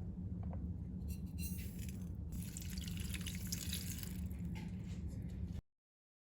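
Tomatoes and vegetables cooking in a pot, a hissing, bubbling liquid sound over a steady low hum that cuts off suddenly near the end.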